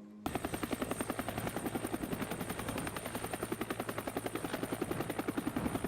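Helicopter rotor chopping in rapid, even beats over a thin high whine, starting abruptly about a quarter of a second in.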